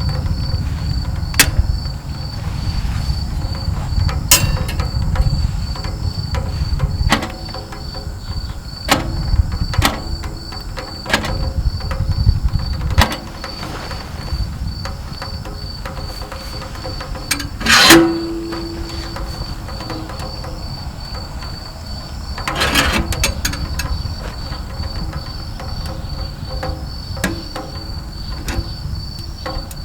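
Wood crackling as it burns in a small camping wood stove, with a cricket chirping in a steady fast trill behind it. A low rumble fades out about halfway through, and near the end of the second third one loud knock rings briefly.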